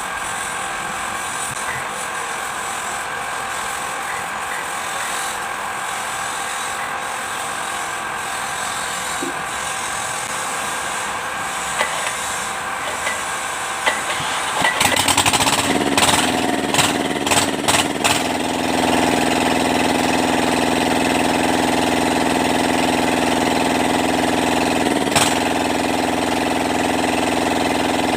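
Kubota Z751 two-cylinder diesel engine catching after a hard start: a steady mechanical hum, then about 14 seconds in it fires unevenly in sharp pulses for a few seconds, and from about 18 seconds it settles into a steady idle.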